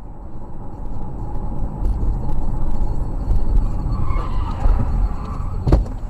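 A car's road and engine rumble heard from inside, with one sharp knock about five and a half seconds in.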